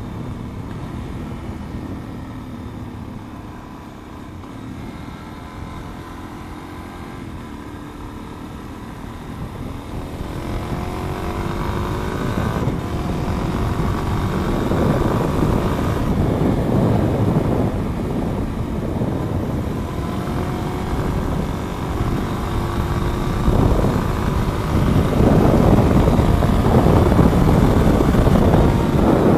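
Motorcycle engine running while riding, with wind rush on the microphone. The engine pitch climbs during acceleration partway through, and it gets louder from about ten seconds in.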